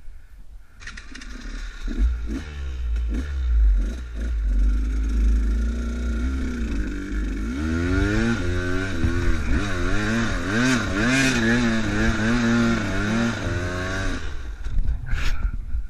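Enduro motorcycle engine running while riding, its pitch rising and falling with the throttle from about halfway through, over a steady rushing noise. Both cut out near the end.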